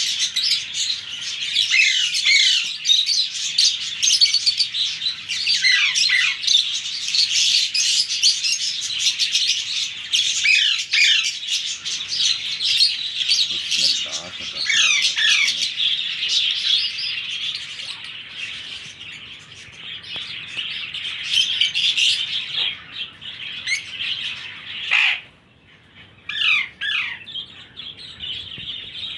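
A group of baby ring-necked parakeet chicks giving constant overlapping high-pitched squawking calls, many sweeping downward in pitch, the begging calls of chicks at feeding time. The calls thin out briefly about 25 seconds in.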